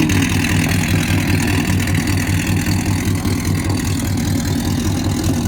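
2015 Chevrolet pickup truck's engine idling steadily, with an even low pulsing note.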